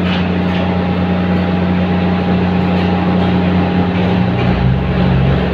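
Diesel passenger trains running with a steady low engine hum. About four seconds in a deeper engine note joins as a train draws up along the platform.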